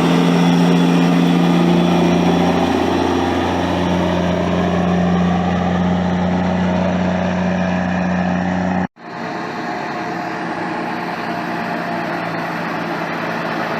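A truck engine idling with a steady low hum. About nine seconds in, a sudden cut switches to a steady, noisier engine rumble without the hum.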